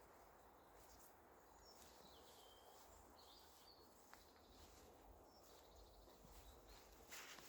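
Near silence: faint outdoor ambience with a few faint, short bird chirps and a brief soft rustle near the end.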